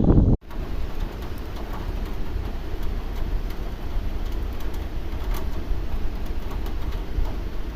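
Steady rain falling, with scattered drop ticks over a continuous low rumble. It starts abruptly about half a second in.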